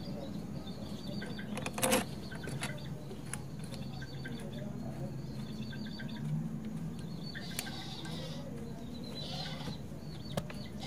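Scattered clicks and knocks of power sprayer pump parts handled as the valves are refitted, over a steady low hum, with birds chirping and farmyard animals in the background.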